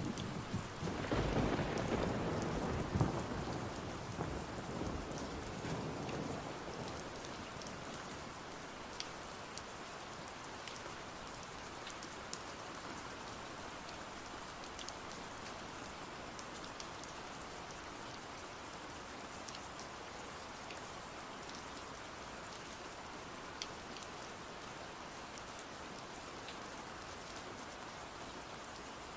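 Steady rain falling, with a low roll of thunder in the first few seconds that fades away by about six seconds in. Scattered small sharp ticks sound over the rain.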